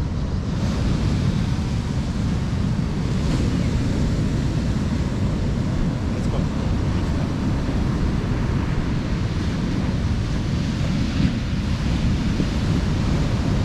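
Strong wind on the microphone over the steady wash of breaking surf.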